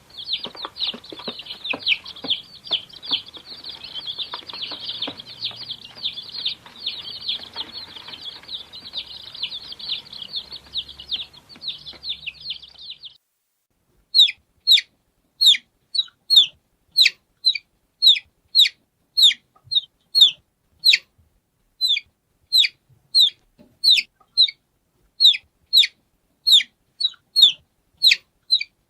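Baby chicks peeping, a dense crowd of high peeps overlapping continuously. About 13 seconds in it cuts to separate, clean chick peeps, each a short falling note, about one and a half a second.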